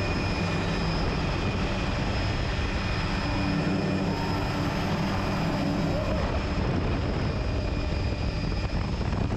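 Helicopter engine and rotor noise running steadily, with a thin high whine over it.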